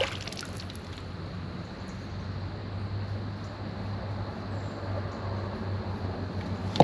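A steady low mechanical hum under a faint even rush of background noise.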